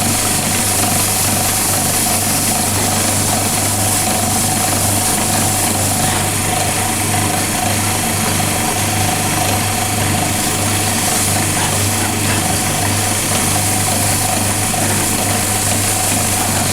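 Wood lathe motor running steadily with a constant hum while wax polish is worked onto the spinning wooden handle.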